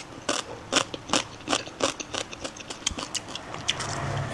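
A person chewing a mouthful of salmon salad close to the microphone: wet mouth clicks and smacks at a steady rhythm of about two to three a second.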